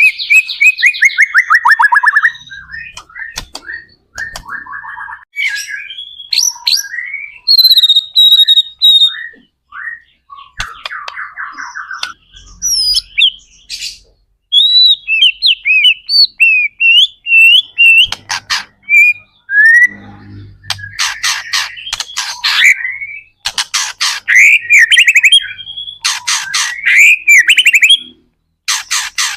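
White-rumped shama singing a long, varied song: fast trills, rising and falling whistles and quick chattering phrases with short pauses between them.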